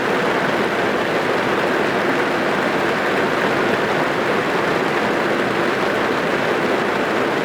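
Steady rain drumming on a car's roof and windows, heard from inside the car as a dense, even patter.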